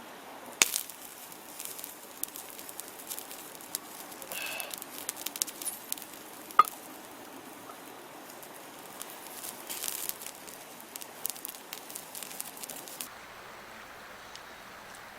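Wood fire crackling, with irregular pops and snaps. There is a sharp crack about half a second in and another loud snap midway, and the crackling stops shortly before the end.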